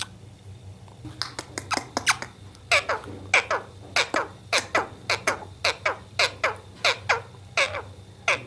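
Pet parrot giving a fast run of short calls, each sliding down in pitch, starting about a second in and stopping shortly before the end.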